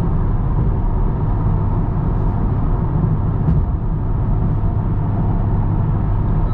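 Steady engine and road drone heard inside a Honda Civic Type R while it drives along, from its turbocharged four-cylinder on the stock exhaust.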